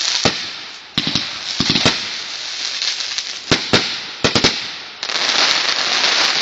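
Consumer fireworks going off: a run of sharp, irregular bangs over a continuous crackling hiss that swells loudest near the end.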